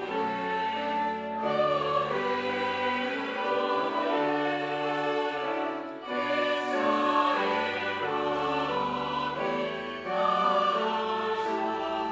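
Slow church music of long held chords, voices of a choir sustaining each chord over instrumental accompaniment, the harmony changing every second or two.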